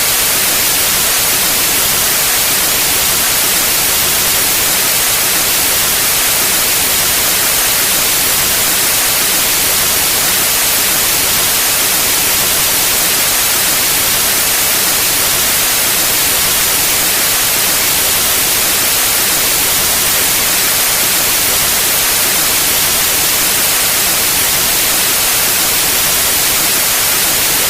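Steady, loud white noise: an even hiss with no changes or events.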